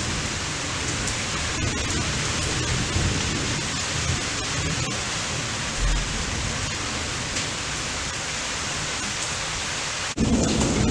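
Steady rain hiss with low rumbles of thunder and a brief low thud about six seconds in. Near the end the sound cuts abruptly to louder wind buffeting the microphone.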